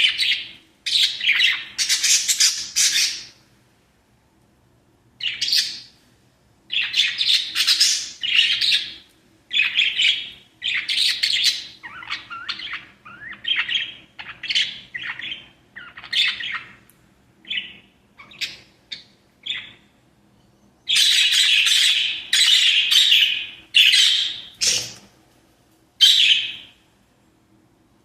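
Small pet parrots chirping and chattering in repeated bursts of a second or two, with short gaps between. A single sharp click comes about three-quarters of the way through.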